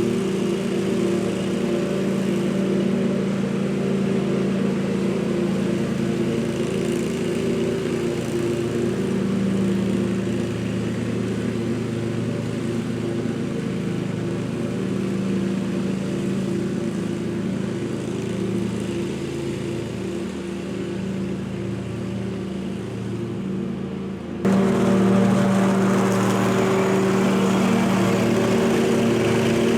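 Scag commercial mower engine running steadily while picking up leaves with a clamshell bagger. About three-quarters of the way through the sound abruptly steps up louder.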